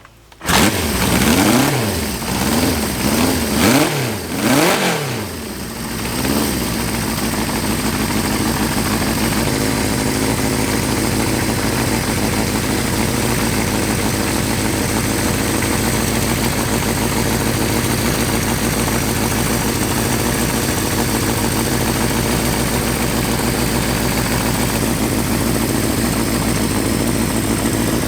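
1975 Honda CB550's air-cooled inline four-cylinder engine firing up and being revved with several quick throttle blips, then settling into a steady idle about six seconds in.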